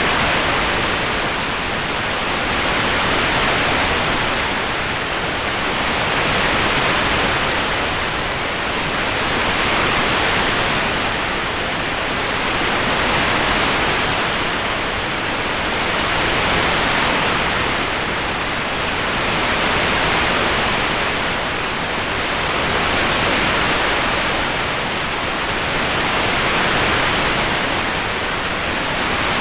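Steady hiss of a rain-sounds ambience track, even and without separate drops, swelling and easing gently about every three and a half seconds.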